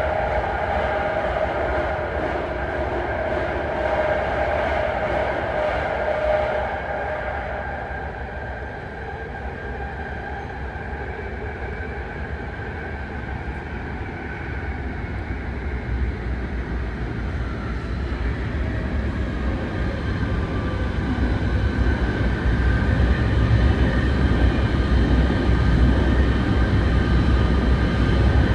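BART train running at speed, heard from inside the car: rail noise with a steady high whine for the first six seconds or so, then a deeper rumble that grows louder toward the end.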